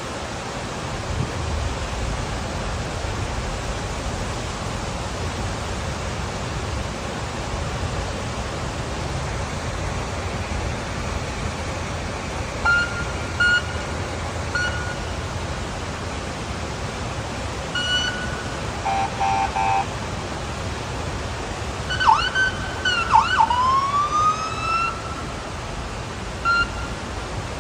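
Emergency-vehicle siren sweeping down and up for a few seconds near the end, over a steady rushing background noise. Short pitched beeps come in several times from about halfway through.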